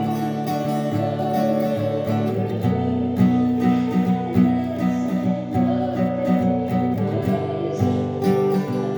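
Acoustic guitar strumming chords, with a chord change about two and a half seconds in and another near seven seconds.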